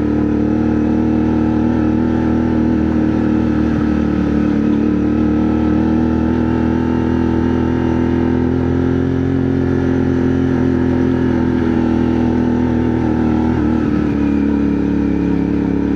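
CFMoto 450NK's parallel-twin engine running steadily while riding, its pitch rising a little around the middle and easing back.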